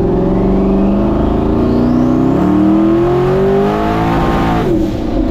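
Twin-turbo cammed LS V8 in a Ford dentside pickup accelerating hard, its engine note climbing steadily with a faint rising whistle above it. Near the end the revs fall sharply as the throttle comes off or a gear changes.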